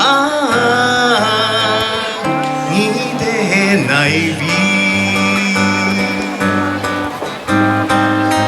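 Live acoustic-guitar-accompanied music. A melody line wavers with vibrato over strummed guitar chords for about the first four seconds, then the strummed chords carry on steadily.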